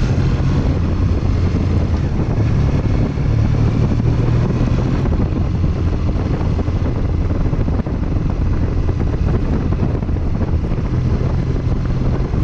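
Triumph Bonneville's parallel-twin engine running while riding, with wind noise on the microphone. The engine note is strong for the first few seconds, weaker through the middle, and comes back near the end.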